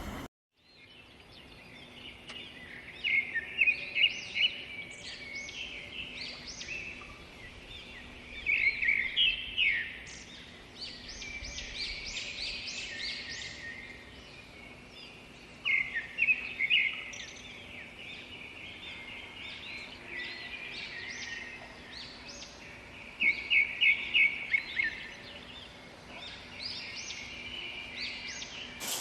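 Birds chirping and calling, with loud bunches of rapid chirps every several seconds over a faint steady background hum.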